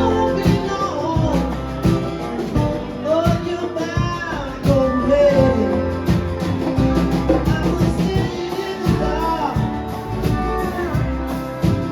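Live band playing: a singer's voice over guitar and drum kit, with a strong bass line underneath.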